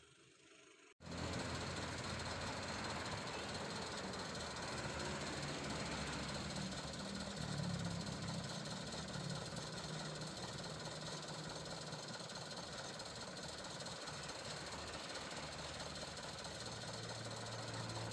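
Truck engine running steadily, cutting in abruptly about a second in.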